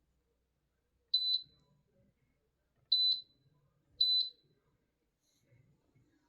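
Tower fan's control panel beeping three times, each a short, high double beep, as its buttons are pressed; no motor sound follows, as the fan does not run.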